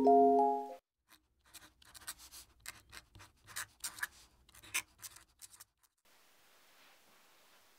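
Background music stops within the first second. It is followed by about five seconds of irregular small scratching and tapping sounds, like handwork on a tabletop, then faint room hiss.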